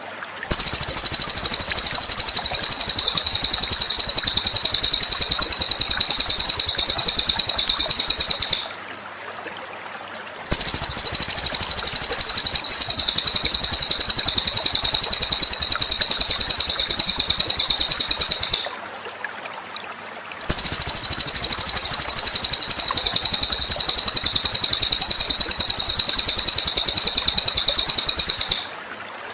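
A songbird's rapid, high, unbroken trill, held about eight seconds at a time and repeated three times with short pauses between, over a steady background hiss. It is a looped master recording of bird song.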